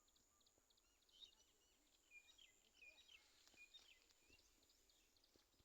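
Faint birdsong: many short chirps and twitters from small birds, over a thin steady high-pitched tone.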